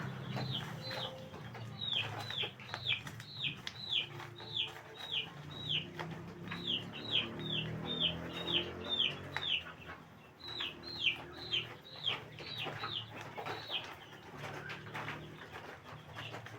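Chicks peeping: a long run of short, high calls that each drop in pitch, about two to three a second, with a few brief pauses.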